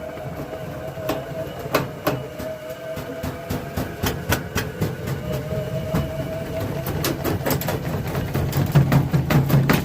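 A brick tumbling in a running washing machine drum, knocking hard against the drum again and again over the steady hum of the motor. The knocks come faster and louder near the end.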